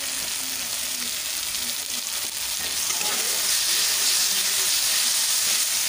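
Tomato-onion masala with freshly added ground spices sizzling in hot oil in a metal pan while a spatula stirs it. The sizzle grows louder about halfway through.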